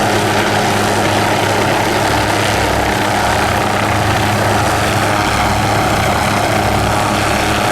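Helicopter flying in close by, its rotor and engine noise loud and steady.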